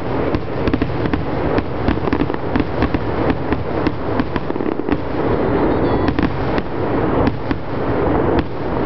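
Aerial fireworks shells bursting in a dense barrage: a continuous rumble of booms with many sharp cracks, several a second.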